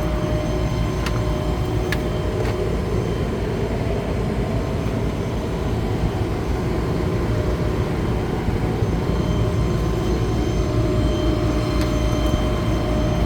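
Thermo King refrigeration unit running steadily: a constant mechanical drone with a steady hum, and a couple of faint clicks about one and two seconds in.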